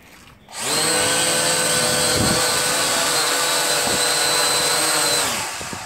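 Syma X8 quadcopter's motors and propellers spinning up about half a second in, running at a steady high whine for about five seconds, then winding down near the end.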